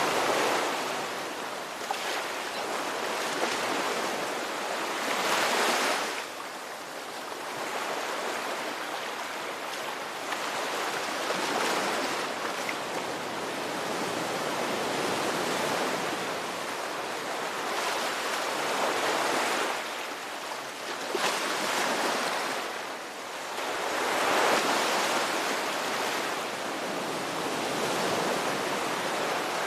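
Ocean waves breaking and washing ashore in a continuous hiss, swelling and falling back as each wave comes in every few seconds.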